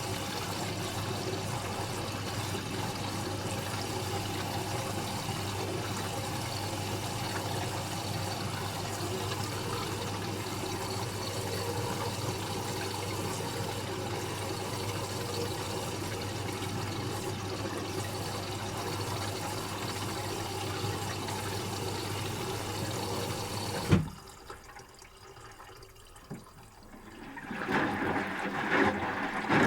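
Asko Quattro W6098X washing machine in its final rinse: water rushing through the machine with a steady low hum. About 24 seconds in it cuts off with a click. After a few seconds of quiet, water sounds start up again near the end.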